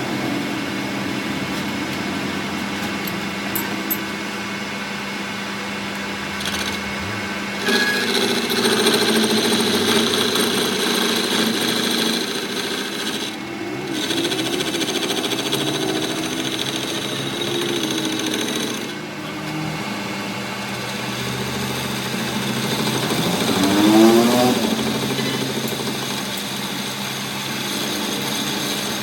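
Workshop power tool or machine running steadily with a mechanical hum of several steady tones. It gets a little louder about eight seconds in, and its pitch swings up and down briefly near the end.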